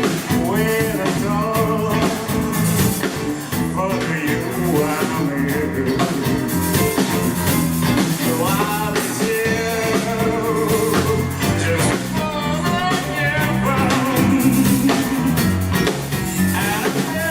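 Live band playing a rock/soul cover song, with a singer, guitar, bass and drums.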